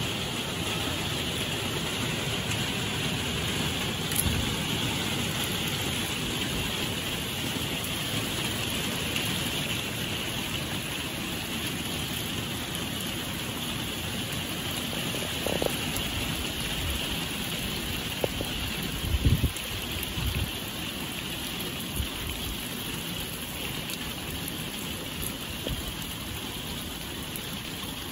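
Heavy rain falling steadily, a constant hiss of rain on the garden and paving. A few brief thumps stand out about two-thirds of the way through.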